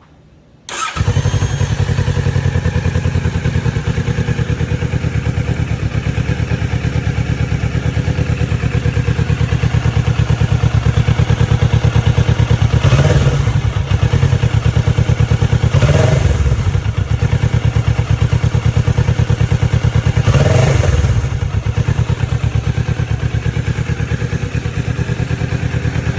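Kawasaki Ninja 650 parallel-twin engine starting about a second in, then idling steadily, with three brief revs of the throttle.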